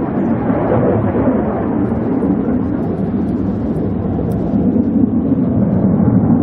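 F-16 Fighting Falcon jet engine noise in flight: a loud, steady rumble that swells slightly near the end.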